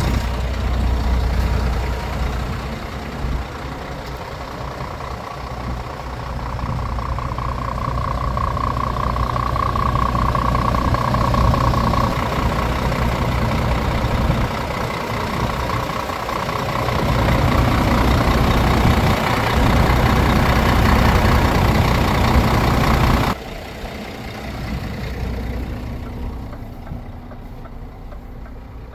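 Scania S540 truck's 13-litre straight-six diesel engine running with a steady low note and a faint high whine that swells and fades in the middle. A little over three-quarters of the way through, the sound drops suddenly to a quieter engine note.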